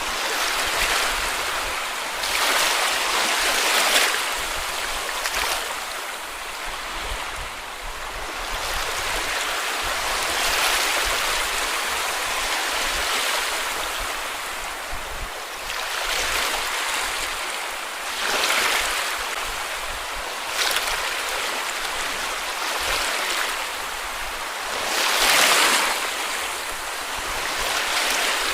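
Small sea waves breaking and washing up the beach, a steady surf hiss that swells every several seconds, strongest about a quarter of the way in and near the end.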